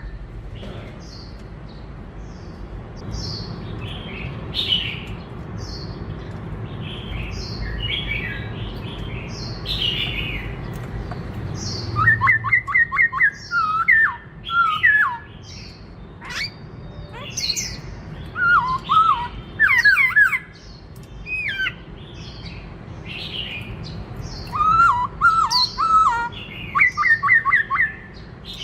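Black-throated laughingthrush singing a varied song: short high chirping notes at first, then from about halfway through, loud bursts of rapid whistled notes repeated in phrases.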